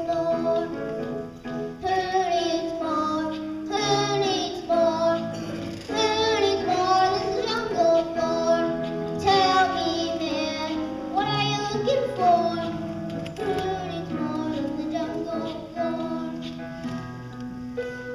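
Children singing a song together over musical accompaniment.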